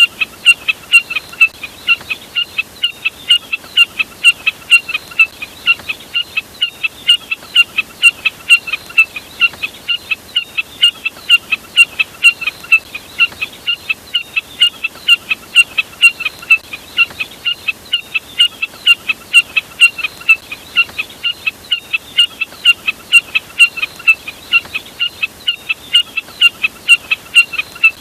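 Jack snipe calls: short, sharp notes repeated about three times a second, in runs of a few seconds broken by brief pauses.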